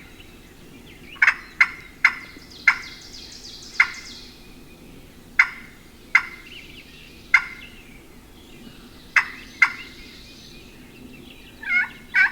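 Wild turkey calling: single sharp clucks spaced roughly a second apart, then near the end a fast run of yelps at about five a second.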